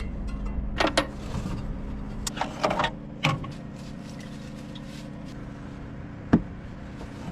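A few separate metallic clinks and knocks from hand work on the engine, the sharpest near the end, over a steady low hum.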